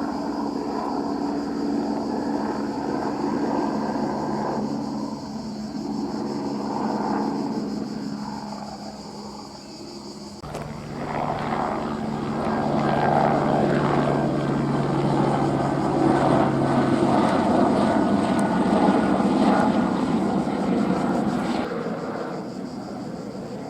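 Airbus AS350 Écureuil helicopter flying, its single turbine and rotor giving a steady drone. The sound changes abruptly about ten seconds in, then grows louder before easing off near the end.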